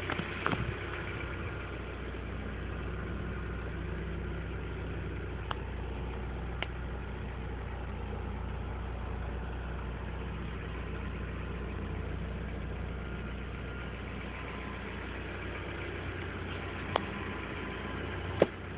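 2004 Mazdaspeed Miata's turbocharged 1.8-litre four-cylinder engine idling steadily, with a few sharp clicks, the loudest near the end.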